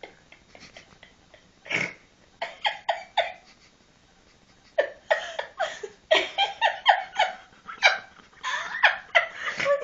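Baby laughing in short bursts: a few laughs, a pause of about a second in the middle, then a longer, quicker run of laughs.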